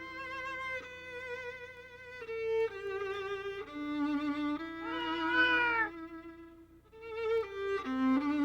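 Violin music playing slow, held notes with vibrato. About five seconds in, a drawn-out cat meow rises and falls in pitch over the music.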